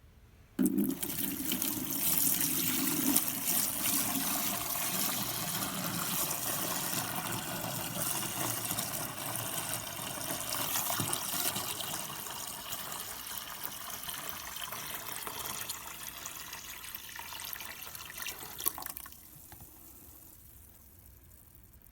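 Water pouring into a humidifier's water tank in a steady stream. It slowly gets quieter as the tank fills and stops abruptly near the end.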